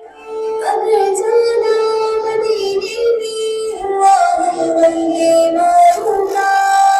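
A song with a singing voice playing loudly from a smartphone's loudspeaker while the phone's audio is tested for distortion.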